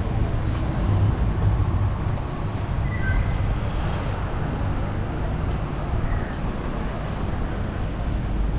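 Steady low rumble of a moving vehicle, with a brief high tone about three seconds in.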